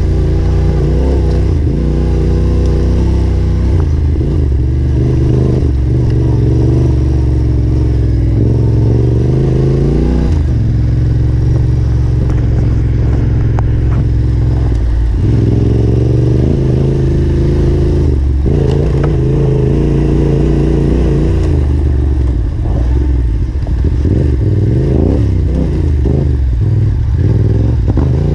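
Yamaha Ténéré 700's parallel-twin engine running hard on a trail ride, the revs rising and falling over and over as the throttle is opened and shut, with a few brief drops.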